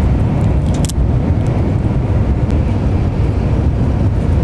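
Steady low rumble of a Shinkansen bullet train running at speed, heard from inside the passenger carriage.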